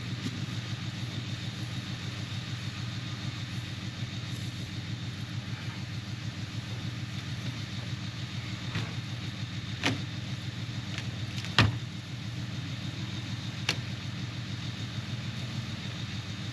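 A vehicle engine running steadily at a low hum. A few sharp clicks or knocks come over it, the loudest a little past halfway.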